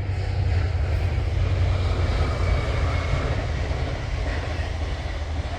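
A Chiltern Railways diesel train passing close by, with a steady, loud low rumble and rushing noise.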